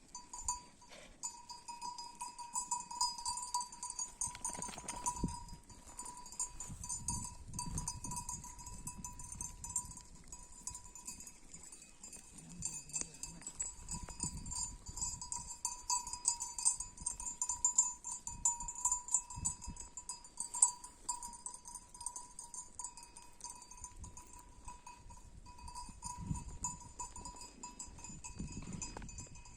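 Livestock bells clinking over a steady high-pitched background, with occasional low rustling.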